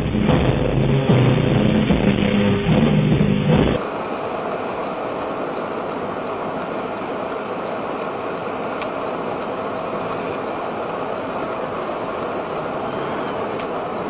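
Loud vehicle engine noise for about four seconds, which cuts off abruptly into a steady, even rushing noise with a faint steady hum, typical of a car in motion.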